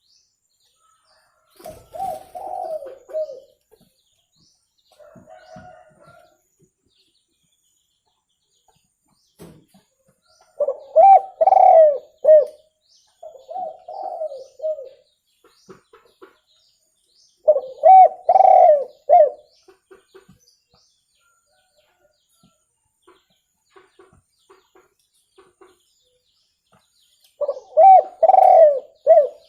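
Spotted dove cooing: repeated phrases of several low, hollow coo notes, with a few seconds of pause between phrases and the loudest phrases coming roughly every seven seconds.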